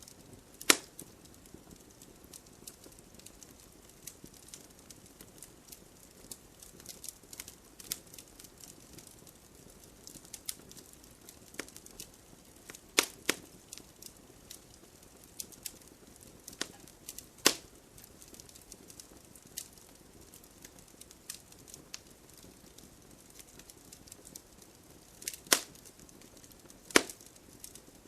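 Wood fire (campfire) burning with a low hiss and frequent small crackles, broken by several loud sharp pops of burning wood, a few seconds apart.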